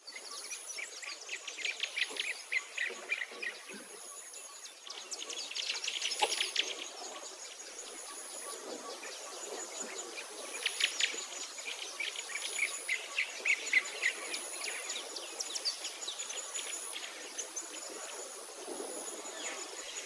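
Small songbirds chirping and twittering in several runs of quick chirps, over a faint steady high-pitched whine.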